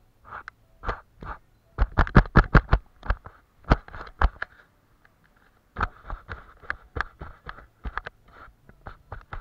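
Watercolour painting sounds close to the microphone: clusters of sharp taps and clicks, a quick run of about six about two seconds in, with soft brush scratching between them.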